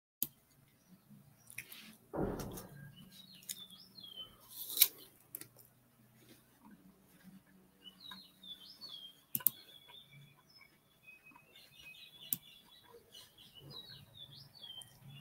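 Birds chirping in short warbling phrases, three times over. Scattered sharp clicks are heard, the loudest a little before five seconds in, and a short dull thud comes about two seconds in.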